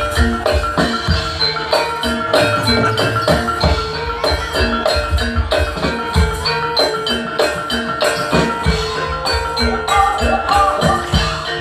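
Javanese jaranan gamelan music playing at a fast, driving pace: hand drums pound under busy interlocking notes from struck bronze pot-gongs and metallophones, whose ringing pitches hold over the beat.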